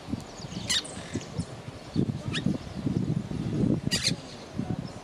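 Monk parakeet giving three short, sharp squawks, about a second and a half apart.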